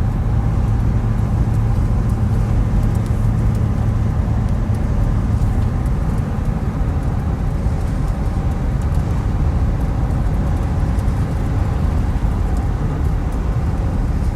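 Road and engine noise of a moving car, heard from inside: a steady low rumble, with a low hum that fades about six seconds in.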